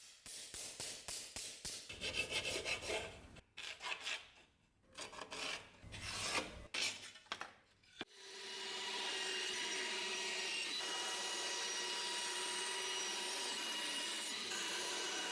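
Irregular rasping strokes of hand abrasive work, such as filing or sanding, with short pauses between them. About eight seconds in, these change abruptly to a steady machine sound with a faint constant whine, typical of a small electric power tool running.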